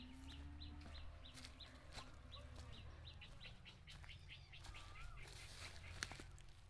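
Faint bird chirping: a steady run of short, high chirps, about three to four a second.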